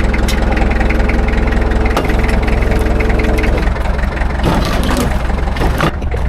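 An engine running steadily at idle, with a low hum under it. About three and a half seconds in, the tone changes, and some knocks and clatter follow.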